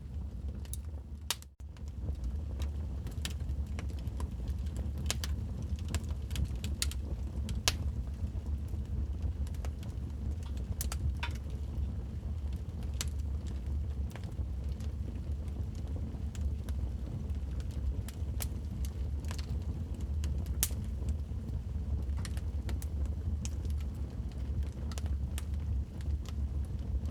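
Wood fire crackling in a fireplace: a steady low rumble of burning with frequent irregular sharp pops and snaps. The sound dips out briefly about a second and a half in.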